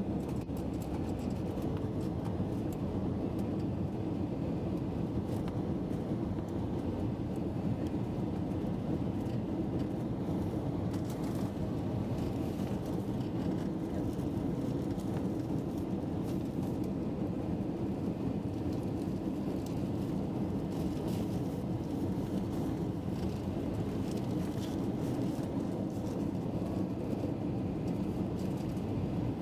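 Steady low rumble of an airliner during its landing, even in level throughout.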